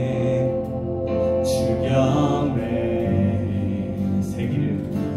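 Live worship band of acoustic guitar, keyboard, bass guitar and electronic drums playing a slow song between sung lines. A sung note is held for the first two seconds or so, and two cymbal crashes come about one and a half and four seconds in.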